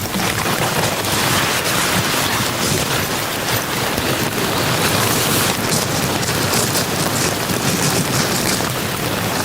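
Heavy rain falling as a steady, loud hiss.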